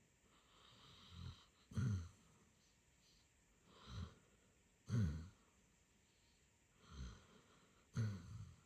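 Basset hound snoring in its sleep: three breaths about three seconds apart, each a softer drawn-out sound followed by a louder snore that drops in pitch.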